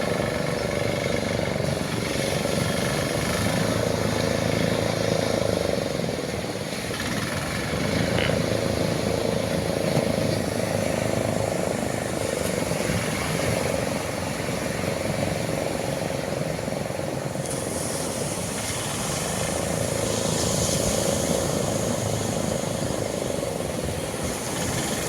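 Motorboat engine running steadily under way, a continuous drone over a wash of noise.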